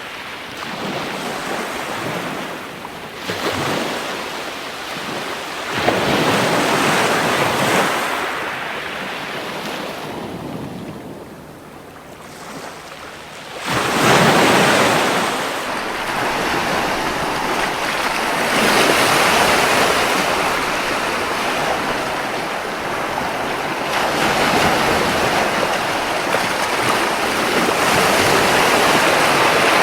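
Ocean waves breaking and washing up on a beach, swelling and falling back every few seconds, with a quieter lull near the middle before a strong wave surges in.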